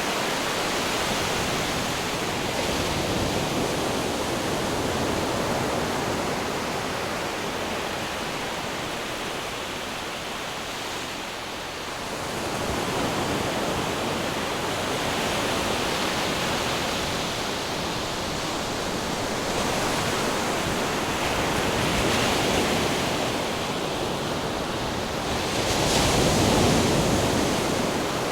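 Ocean surf breaking and washing in, a continuous rush that swells and eases over several seconds, with the biggest surge near the end.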